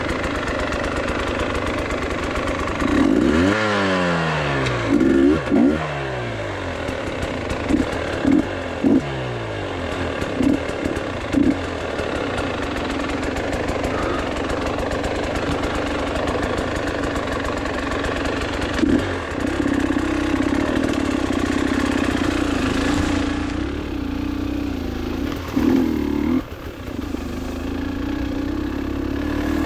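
Motorcycle engine revving up and down several times in quick succession, with short bursts of throttle, then running at a steadier speed for the last ten seconds or so.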